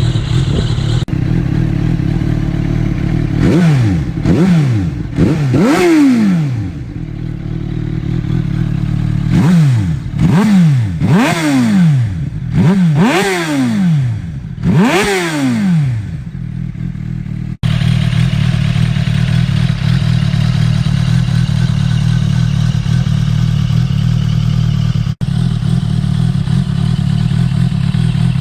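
2014 Suzuki GSR600's inline-four engine through an aftermarket SBK exhaust, idling and revved in short throttle blips. There are three quick revs a few seconds in and a run of about six more in the middle, each rising sharply and falling back, and then it settles to a steady idle.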